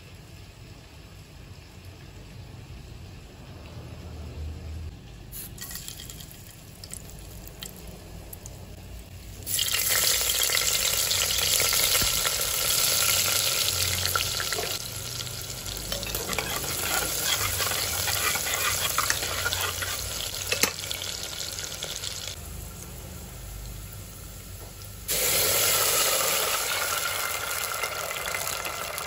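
Sliced onions and spices frying in hot oil in a pressure cooker. A loud sizzle starts suddenly about ten seconds in, as they go into the oil. After a short lull, a fresh burst of sizzling comes near the end.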